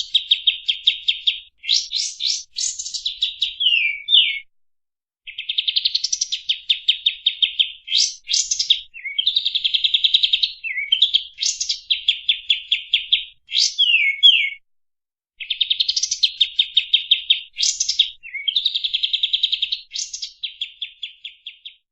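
Kapas tembak songbird singing in long phrases of fast, tightly packed repeated notes, each phrase broken by quick up-and-down whistled sweeps, with short pauses between phrases.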